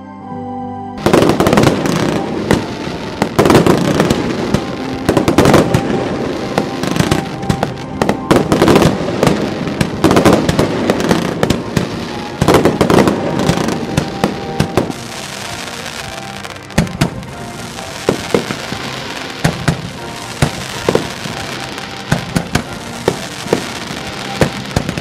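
Fireworks display: shells bursting in quick succession with sharp bangs and dense crackling, starting suddenly about a second in. In the second half the bangs thin out over a steady hissing crackle.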